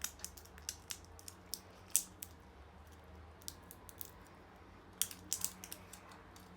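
Small hard clicks and taps from handling the remote control's batteries and plastic parts, irregular, in a cluster over the first two seconds and another about five seconds in.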